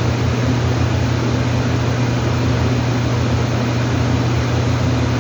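A steady low mechanical hum over a constant rushing noise, unchanging throughout.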